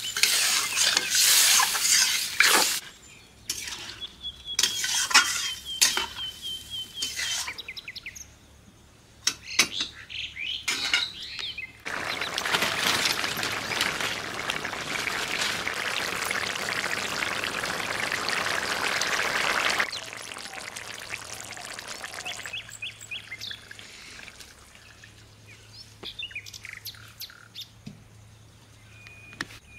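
Curry sizzling and being stirred in a kadhai for the first few seconds, with small birds chirping through much of the rest. In the middle comes a steady hiss lasting about eight seconds.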